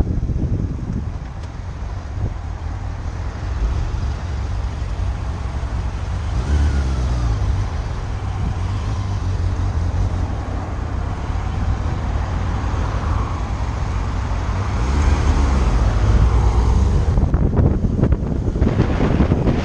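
Motorcycle riding, its engine running under heavy wind noise on the microphone. The engine note rises and falls about a third of the way in, and again louder near the end.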